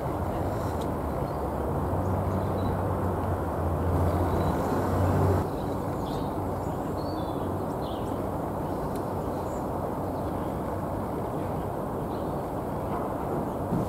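Steady low outdoor background rumble, with a deeper hum that cuts off about five seconds in. A few faint high bird chirps come through about seven seconds in.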